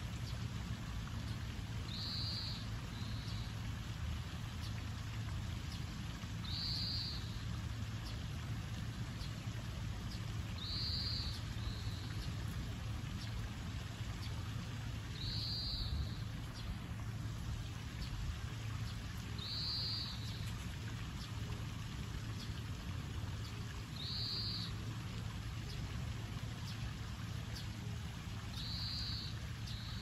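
A bird repeating a short, high call about every four and a half seconds, some calls followed by a softer second note, over a steady background hiss and low hum.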